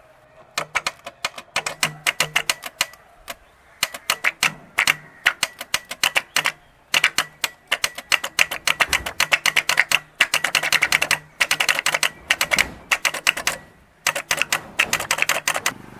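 Starter solenoid of a Tata Indica diesel clicking rapidly in repeated bursts as battery power is fed straight to the starter, while the engine does not turn over. The engine is seized, with its pistons and rings rusted fast from flood water.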